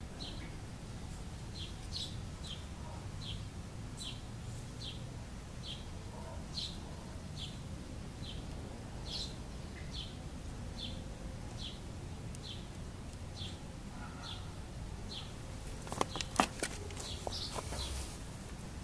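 A bird chirping one short high note over and over, a little more than once a second, above a low steady rumble. A few sharp clicks come near the end.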